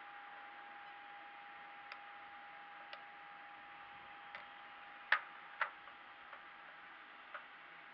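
Sharp clicks and taps at irregular intervals, about seven in all, the loudest two close together about five seconds in, over a steady hiss with a faint steady hum.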